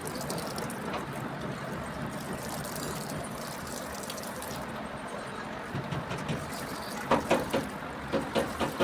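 Water running steadily, as when washing out the cylinder bores of a Cummins diesel engine block, with a few short louder sounds near the end.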